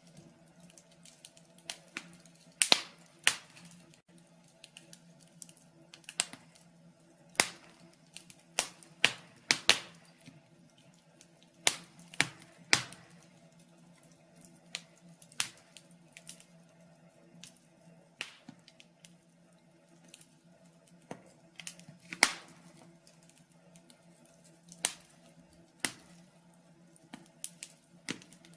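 Wood fire in a fireplace crackling: irregular sharp pops and snaps, some louder than others, at uneven intervals over a faint steady hum.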